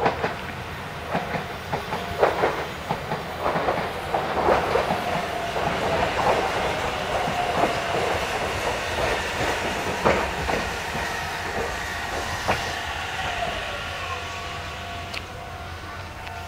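Nagoya Railroad electric train running along the platform, its wheels clicking over rail joints in an uneven series. A steady tone under it slides down in pitch about two-thirds of the way through, and the train noise then fades.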